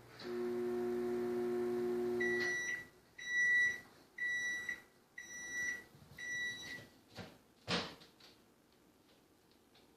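Microwave oven running with a steady hum, which stops a couple of seconds in as the heating cycle ends. It then beeps five times, about once a second, to signal it is done. A single sharp click follows near the end.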